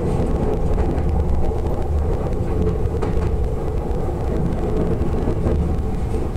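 Interior running noise of an Odakyu 60000-series MSE Romancecar (Toshiba IGBT-VVVF drive, fully enclosed traction motors), heard inside the passenger car. A steady, even rumble of the train travelling along the track.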